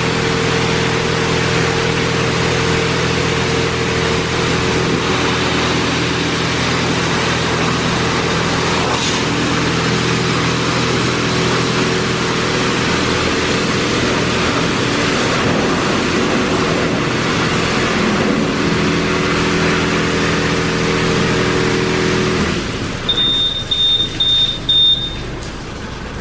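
Car wash machinery running loudly with a steady whooshing hum, which cuts off abruptly after about twenty-two seconds. Four short, high beeps follow in quick succession.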